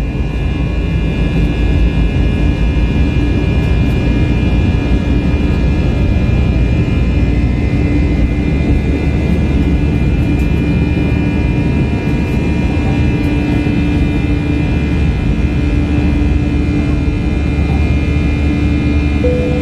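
Airbus A321-200 jet engines running steadily, heard from inside the passenger cabin as a loud, even rumble with several steady whining tones on top.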